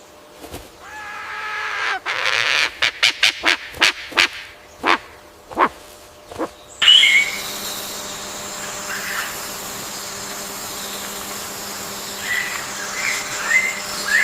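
Bird sounds. A drawn-out honking call swells for about a second. A quick run of sharp clicks or knocks follows. After an abrupt change, short high chirps sound over a steady hiss.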